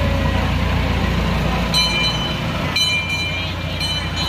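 Small tourist train with a replica steam locomotive rolling past with a steady low rumble; from about two seconds in, a high-pitched metallic squeal comes and goes in short spells as the passenger cars go by.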